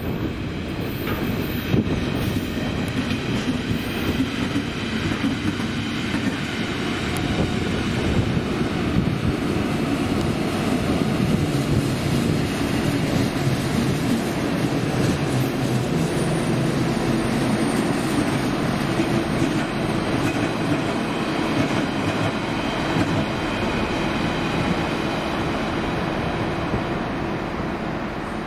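A train moving along the tracks: a steady, loud rumble of wheels on rail.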